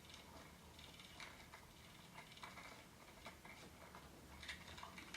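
Near silence, with faint irregular ticks and clicks.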